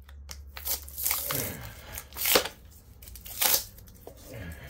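Paper insulation being scraped and torn off a thick copper transformer winding, three loud scraping strokes about a second apart with smaller scratches between.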